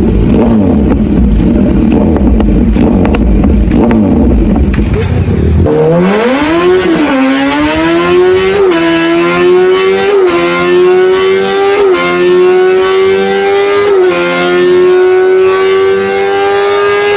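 Kawasaki Z900 inline-four engine through its exhaust: a rough, loud running rumble, then about six seconds in a clean high-pitched note climbing in pitch as the bike accelerates, dipping briefly at each upshift about every one and a half to two seconds.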